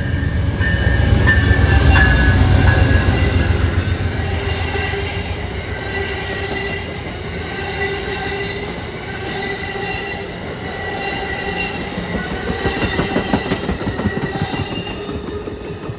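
A train rolling past: a heavy low rumble for the first few seconds, then railcars going by with steady wheel squeal and a run of quick clicks from the wheels on the rail joints.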